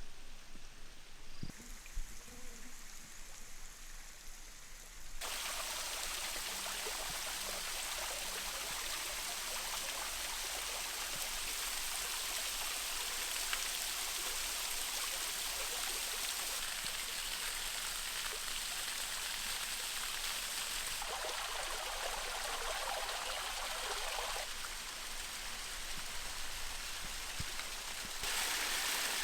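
A steady, water-like rushing noise. It sets in abruptly about five seconds in, after a quieter stretch with a few soft knocks, and changes level suddenly a few times.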